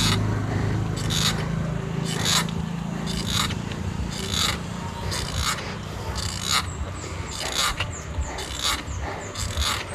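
A short scraping stroke repeating steadily about once a second, with a low hum fading out over the first few seconds.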